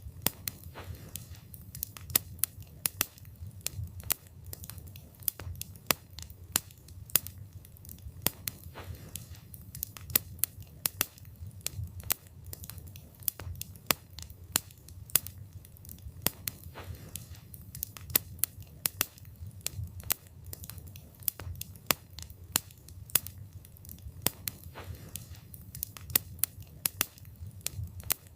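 Wood campfire burning, the wood crackling and popping in many sharp, irregular snaps over a low steady rumble of the flames.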